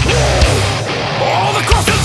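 Heavy metal band music: the drums and bass drop away for about a second, leaving sliding, bending guitar notes, and the full band comes back in near the end.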